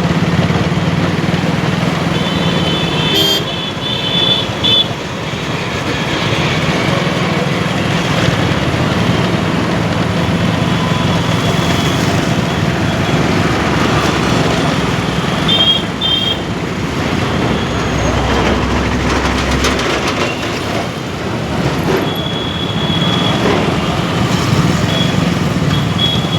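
Busy city road traffic heard from a moving motorbike: a steady engine and road noise, with vehicle horns honking several times, about three seconds in, around sixteen seconds, and again near the end.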